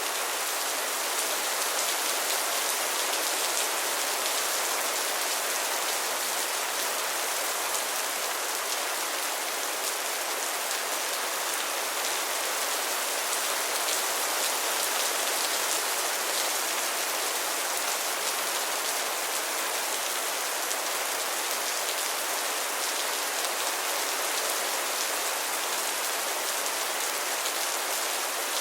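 Heavy rain falling steadily, an even hiss of dense drops pattering on a surface, with no let-up and no thunder.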